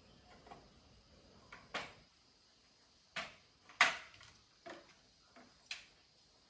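A series of about six or seven short, sharp clicks and knocks at irregular spacing, the loudest a little past halfway.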